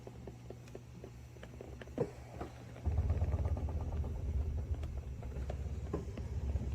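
Massage machine's motor running with a steady low hum, stepping up clearly louder about three seconds in, with scattered light clicks over it.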